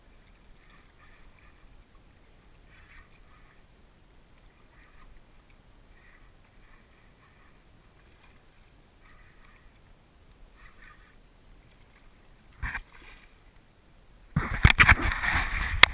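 A kayak being paddled: faint, soft paddle strokes in the water, roughly one a second. Near the end, one brief louder splash, then a loud stretch of sloshing and sharp knocks.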